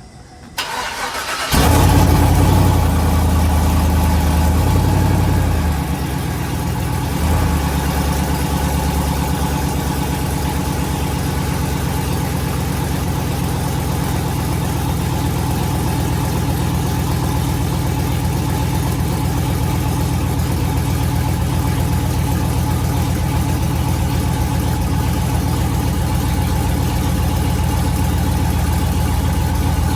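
Mud truck's engine cranking and catching about a second and a half in, running at a fast idle for a few seconds, then dropping to a lower idle. After a brief rise in revs it settles into a steady idle.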